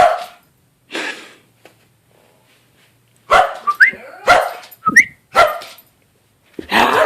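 Dog barking in short, separate barks, a few with a quick rising yelp, then breaking into a longer, louder outburst near the end.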